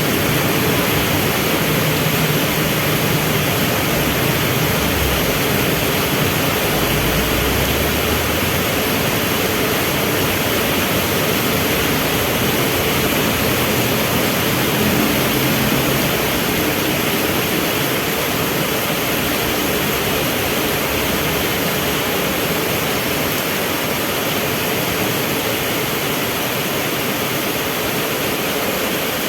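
Heavy rain falling in a steady hiss, with a low hum of idling vehicle engines that comes and goes in the first half.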